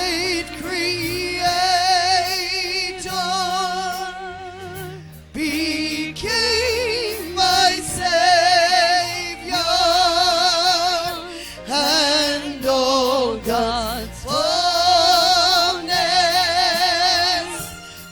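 A woman singing a slow worship song solo, holding long notes with a wide vibrato in several phrases with short breaks between them, over a low sustained accompaniment.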